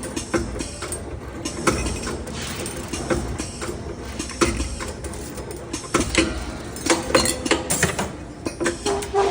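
CNC wire bending machine running, a steady mechanical hum with frequent irregular metallic clicks and clanks as it feeds and bends the wire.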